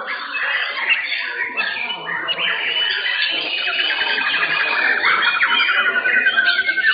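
Several white-rumped shamas (murai batu) singing at once, with overlapping whistles and fast trills. A rapid trill of quickly repeated notes runs through the last couple of seconds.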